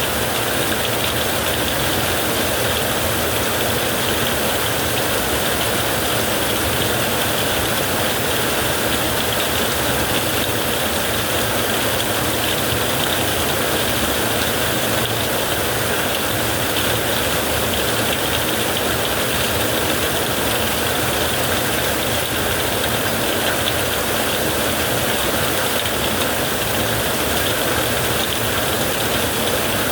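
Heavy rain falling steadily on a tent, a dense, even noise with no break or change in level.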